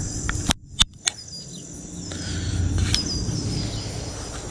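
Insects trilling steadily, with three sharp clicks about half a second to a second in, over a low rumble.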